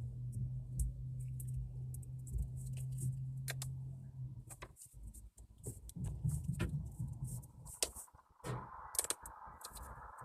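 Slime being mixed and worked by hand, giving irregular sticky clicks and small pops, over a steady low hum during the first half.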